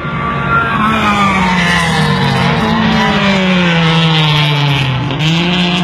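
Race car engine running hard, its pitch rising about a second in, then sliding steadily down over several seconds as it passes or lifts off, and climbing again near the end as it picks up speed.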